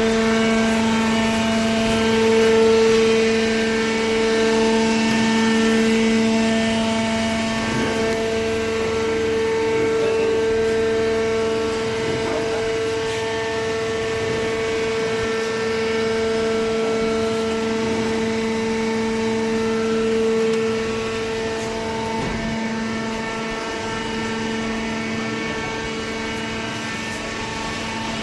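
Hydraulic baler's motor and pump running, a steady pitched hum with a whine above it; it gets slightly quieter about three quarters of the way in.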